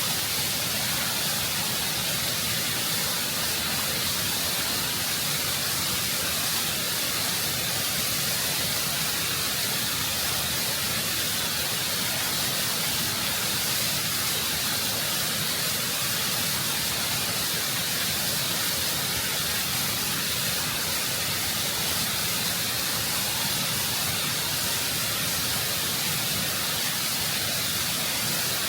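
Waterfall close up, water rushing and cascading over rock in a constant, full roar of spray with the most energy in the hiss.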